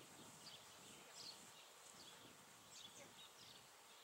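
Near silence: faint outdoor ambience with a small bird's short high chirps repeating about every half second.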